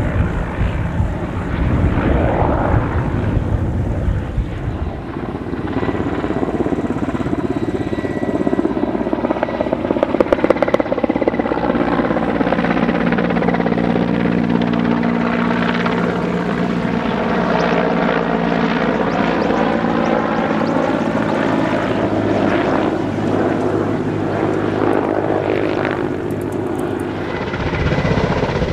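Helicopter in flight: rotor blade chop at the start, then a steady engine drone whose pitch slowly sways, with the chop coming back near the end.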